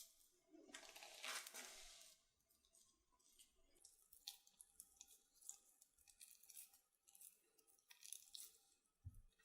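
Faint, irregular crunching and rustling with small clicks from food being handled during preparation, strongest in the first couple of seconds.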